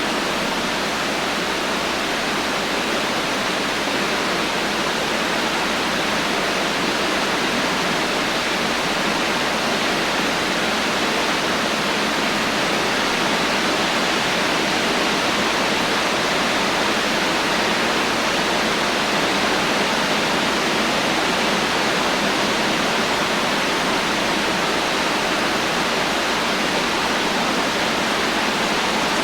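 Heavy rain falling steadily without thunder: a constant, even hiss with no separate drops or rumbles standing out.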